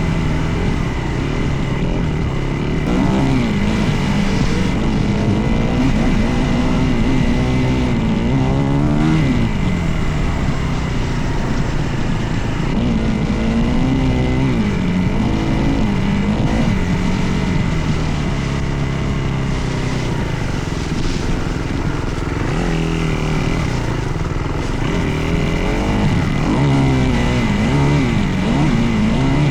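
Dirt bike engine running under riding load, its revs rising and falling again and again as the throttle is worked and gears change.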